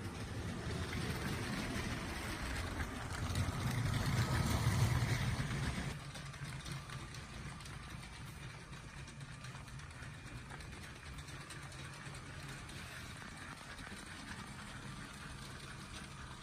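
Motorized LEGO train running on plastic track: a small electric motor whirring along with the wheels on the rails. It grows louder for the first five seconds or so, drops suddenly about six seconds in, then runs on as a steady, quieter hum.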